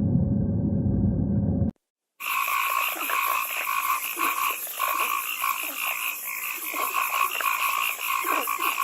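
A dense chorus of frogs croaking, many calls overlapping in a rapid pulsing trill with a high buzzing layer above. It starts suddenly after a low rumbling noise cuts off about two seconds in.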